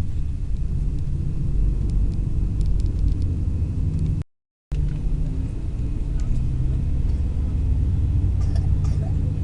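Steady low rumble of a long-distance coach's engine and road noise, heard from inside the cabin, with a few faint ticks and rattles. The sound cuts out completely for about half a second a little after four seconds in.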